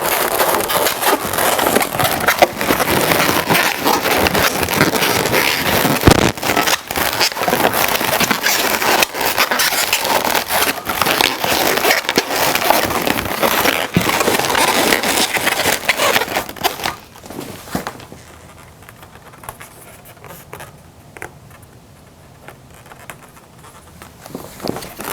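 Latex twisting balloons rubbing, squeaking and crackling against each other as they are twisted and wrapped together, a dense run of scraping and clicks that drops away to a much quieter stretch about two-thirds of the way through.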